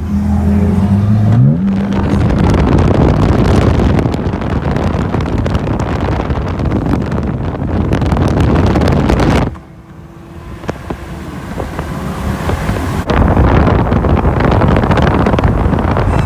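A car engine revving, its pitch climbing over the first second or so, then a loud unbroken roar of engine and wind noise. The roar cuts off suddenly about nine and a half seconds in and comes back loud about three seconds later.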